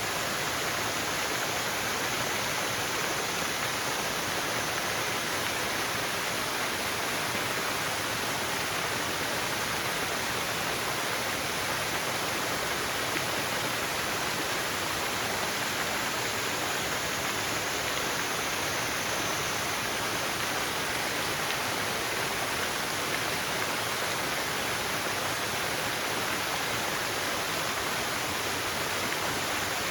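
A forest waterfall: water falling and splashing in a steady, unbroken rush.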